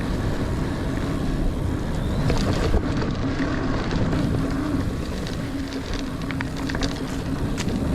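A Niner Air 9 RDO 29er mountain bike rolling fast over dirt singletrack: a steady tyre hum over rumble and wind noise, with a few small clicks and rattles from the bike.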